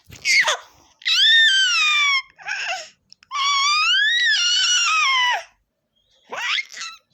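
A pet animal making five high-pitched whining cries, some short and falling in pitch, two long ones drawn out over a second or more, the longest rising and then falling.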